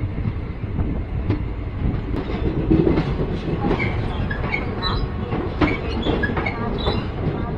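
Passenger express train pulling out of a station, heard from the open coach doorway: a steady rumble of wheels on the rails, with frequent sharp clicks of the wheels over rail joints and brief high squeaks from the running gear.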